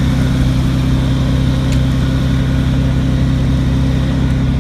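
1997 Nissan Pathfinder's engine idling steadily and smoothly ("like a kitten"), running after the flood-damaged truck was jump-started.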